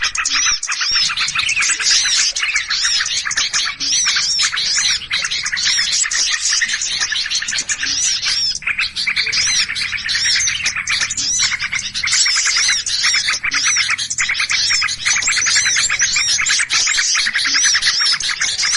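Dense, unbroken chorus of small songbirds chirping and chattering in agitation, with a high rising-and-falling call repeating over and over above the chatter. This is the excited 'ribut' (noisy, alarmed) chatter used as a lure call to draw small birds in.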